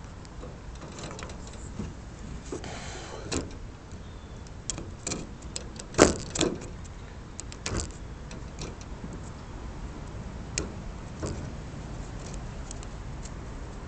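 Handling of a small homemade bird trap of stick, wire and elastic band as it is being set: scattered small clicks and knocks, the loudest about six seconds in, with a brief rustle a few seconds in.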